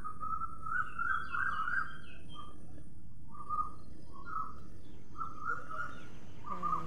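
Birds singing: a run of short, repeated warbling phrases over a steady background hiss, with a lower-pitched sound joining near the end.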